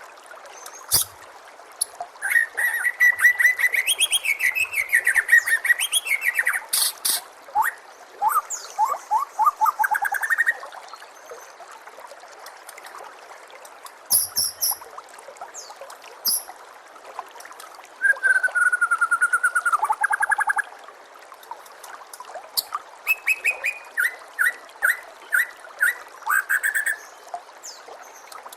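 White-rumped shama (murai batu) singing: bursts of fast trills and sweeping whistled phrases, with pauses of a few seconds between phrases, over a steady background hiss.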